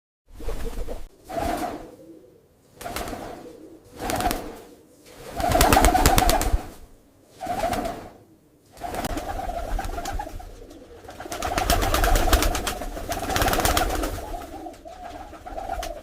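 Pigeons cooing in a run of swelling coos, each about a second long, that overlap into a near-continuous cooing from about halfway through.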